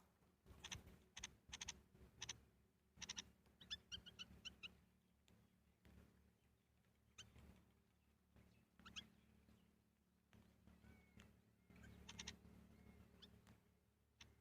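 Small birds chirping faintly in short, high calls, scattered in little clusters, with a quick run of repeated chirps about four seconds in, over a low steady hum.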